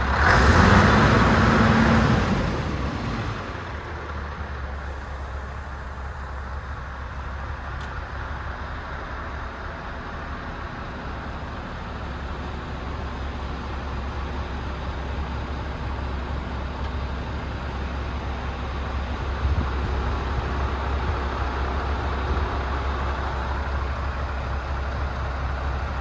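Scania R500's 500 bhp V8 turbo diesel briefly revving, its pitch rising and falling, then settling into a steady low idle. The idle grows a little louder again in the second half.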